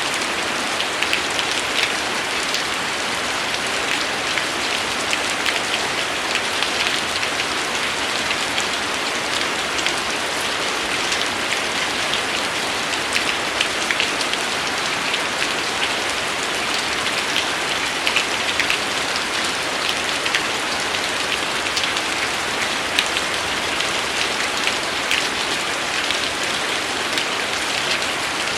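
Steady rain: an even hiss with many individual drops ticking close by.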